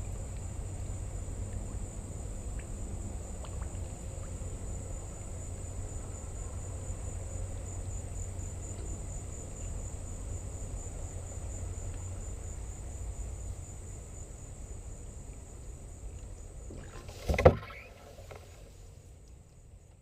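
Steady insect buzz in a high, slightly pulsing band over a low rumble, cut by one sharp, loud knock about 17 seconds in, after which the sound fades out.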